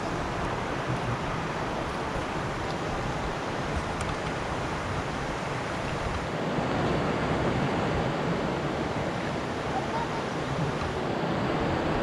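Steady rush of a flowing river, a little louder from about halfway.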